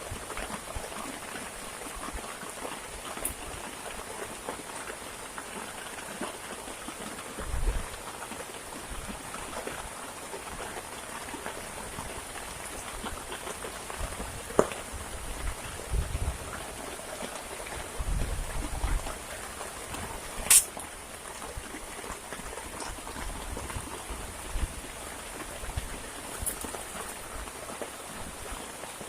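Steady heavy rain falling, with a few low thumps and a couple of sharp clicks, the loudest click about two-thirds of the way in.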